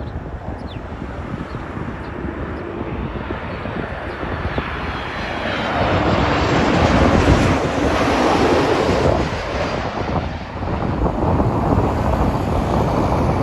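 Jet engines of an Air Canada Boeing 737 MAX 8 (CFM LEAP-1B turbofans) roaring as the airliner passes, building to loudest about halfway through and staying loud.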